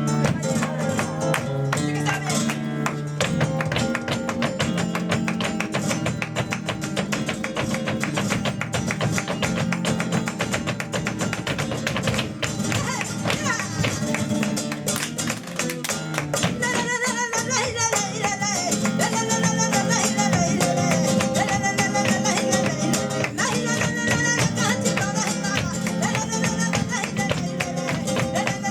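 Live flamenco tangos: flamenco guitar playing with a steady run of sharp percussive strikes in rhythm. A singer's voice is prominent in the second half.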